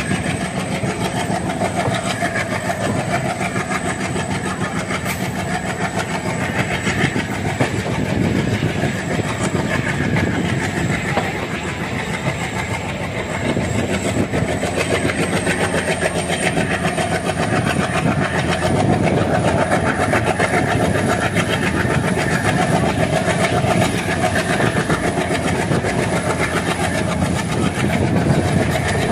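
Passenger train coach running at speed: wheels on the track making a steady rumble with clickety-clack, heard at the open coach door.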